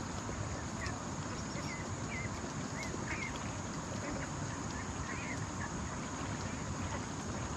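Short, scattered bird calls, a few small chirps every second or so, over a steady background hiss.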